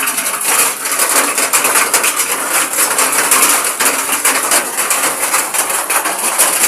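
Heavy rain with hail: a steady downpour hiss packed with rapid, irregular clattering of hailstones striking hard surfaces.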